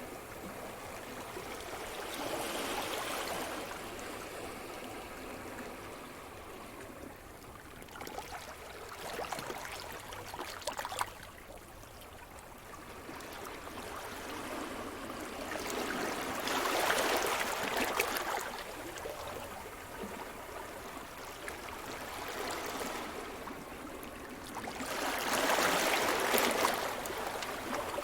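Sea surf: waves breaking and washing up the shore, the rush swelling and fading several times, loudest near the middle and again near the end.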